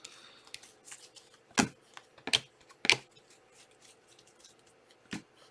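Trading cards being handled and flicked through one by one: a string of irregular sharp clicks and snaps, with louder ones about one and a half, two and a half, three and five seconds in.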